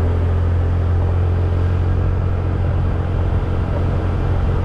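Motorcycle riding along a road: a steady low rumble of engine and wind on the helmet-mounted action camera's microphone.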